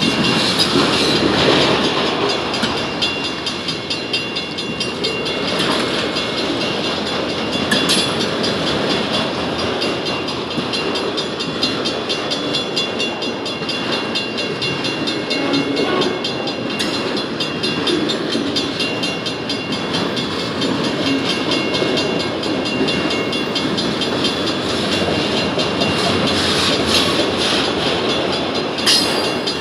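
Freight train of enclosed autorack cars rolling past close by: a steady rumble and rattle of steel wheels on rail, with a few sharp clicks along the way.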